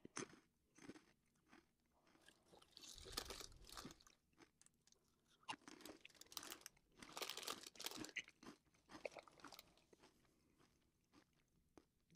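A person biting into and chewing crunchy Buffalo Cheetos: faint, scattered crunches, a cluster about three seconds in and a longer run of chewing through the middle.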